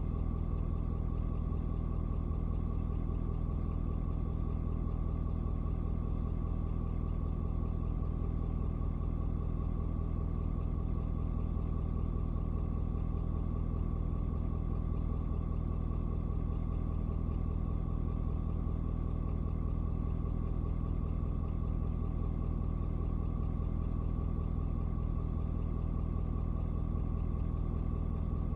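Ford 6.7-litre Power Stroke turbo-diesel V8 idling steadily, warmed up to operating temperature after a cold start. A steady high whine sits above the low, even idle.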